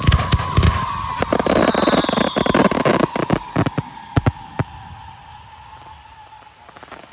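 Display fireworks going off: a rapid string of loud bangs and dense crackling, with a long whistle that slowly drops in pitch and a shorter, higher whistle falling over about two seconds. The bangs thin out and stop about four and a half seconds in, leaving the long whistle to fade.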